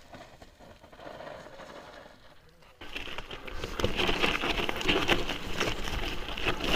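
Mountain bike riding over a rocky trail: tyres crunching over loose stones with the bike rattling. The sound is faint at first and becomes much louder about three seconds in.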